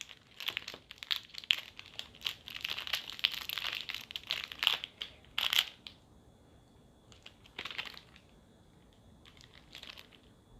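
Wrapper of an Aero chocolate bar crinkling and tearing as it is opened, a dense run of crackles for about six seconds. After that, only a few short crackles.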